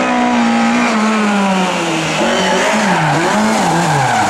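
Lada race car engines running hard, their pitch holding, then dropping and swinging up and down in quick rev changes, with more than one engine heard at once in the second half.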